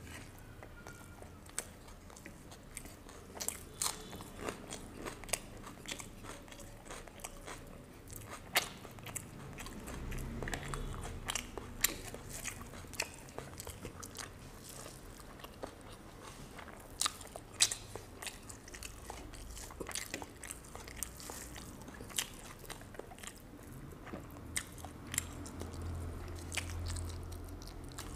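Close-miked chewing and crunching of fried surma fish and rice eaten by hand: irregular sharp crunches and mouth clicks, with fingers picking at the plate.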